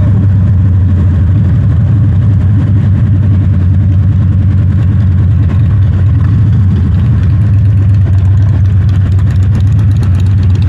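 Harley-Davidson Dyna Super Glide's air-cooled V-twin engine running steadily.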